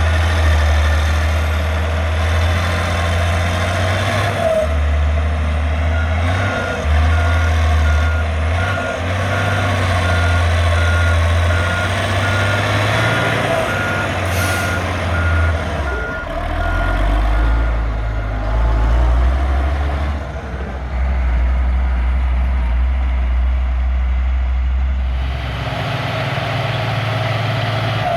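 Heavy diesel engine of a Caterpillar 140G motor grader running under working load, its pitch shifting as the machine works and settling lower after about sixteen seconds. A reverse alarm beeps steadily from about six seconds in until about eighteen seconds.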